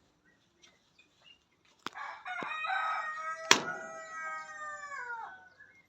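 A rooster crowing: one long drawn-out crow starting about two seconds in and falling in pitch as it trails off near the end. Two sharp clicks come just before and during the crow.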